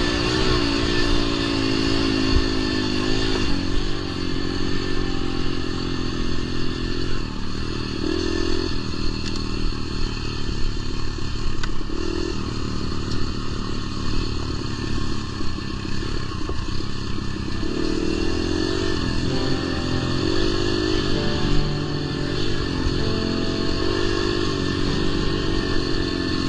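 Dirt bike engine being ridden on a trail, its pitch rising and falling over and over as the throttle is worked, with some clatter.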